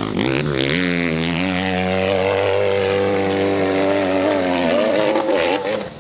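Dirt bike engine revving hard. The revs dip and climb in the first second, hold high and steady, then drop off sharply just before the end.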